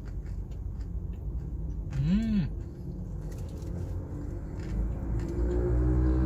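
Closed-mouth chewing of a burger with a crispy onion ring, with faint crunches over a steady low rumble inside a car cabin. About two seconds in comes a short hummed "mmm" that rises and falls in pitch. Background music fades in near the end.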